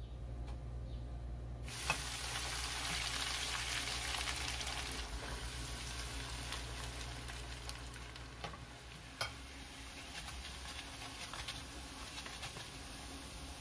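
Coxinhas frying in hot oil: a crackling sizzle starts suddenly about two seconds in and eases a little after a few seconds. There are two sharp clicks, one as the sizzle starts and another about nine seconds in.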